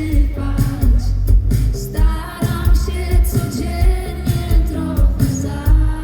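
Live pop band playing, with a steady drum beat and heavy bass under a sung melody.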